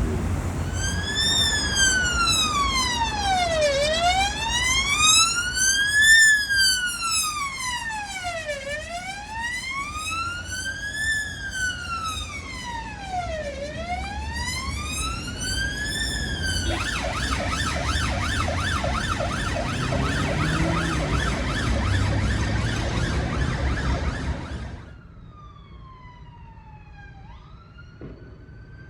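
Emergency vehicle siren on a slow wail, rising and falling about every five seconds, then switching to a fast yelp about two-thirds of the way through, with vehicle road noise underneath. Near the end the sound cuts abruptly to a quieter, more distant siren sweeping up and down.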